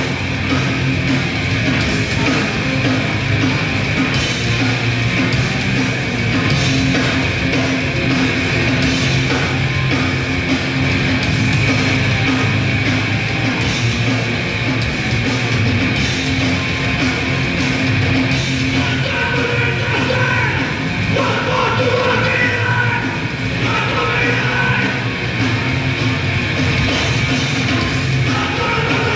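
A grindcore band playing live: distorted guitar, bass and drums in one dense, unbroken wall of sound, with yelled vocals.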